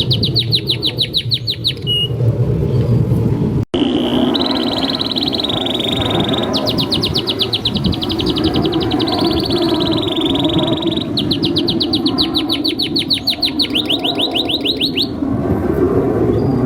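Domestic canary singing a long, continuous song: three long runs of rapid, evenly repeated trill notes linked by held whistled notes, with a brief break about a third of the way in.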